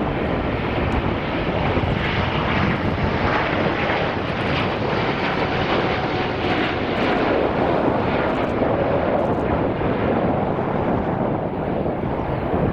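Airbus A350-900's Rolls-Royce Trent XWB turbofan engines at takeoff thrust: a loud, steady jet noise that holds level throughout.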